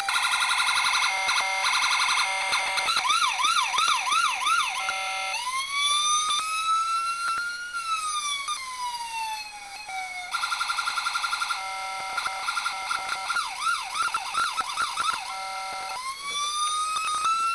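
Miniature electronic police siren in a 1/18 scale model Hummer, playing through its small speaker and cycling through its tones: rapid pulsed beeps, a fast yelp, and a slow wail that rises and falls. The sequence then repeats, with pulsed beeps about ten seconds in, another yelp, and a wail rising again at the end.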